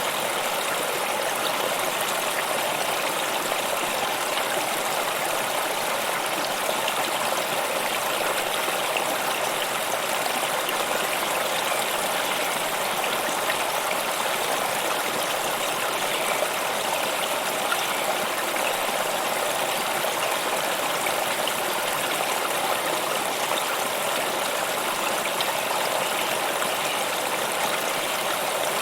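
A stream of water flowing steadily over rocks, an even rushing and babbling without change.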